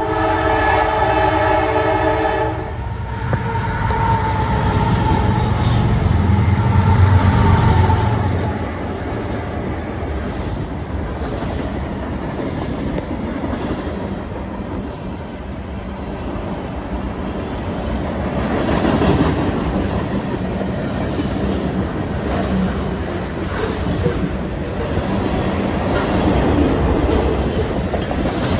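Freight train passing close by: the diesel locomotive sounds its multi-tone horn for about two and a half seconds and rumbles past loudly. Then the train's cars roll by with steady wheel clatter on the rail joints.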